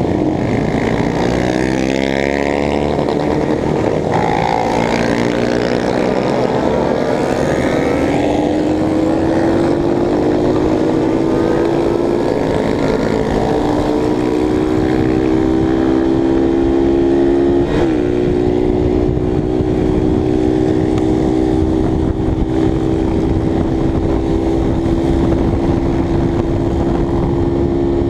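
Motorcycle engine under way, rising in pitch as it accelerates over the first several seconds, then running at a fairly steady cruising pitch, with wind noise on the microphone.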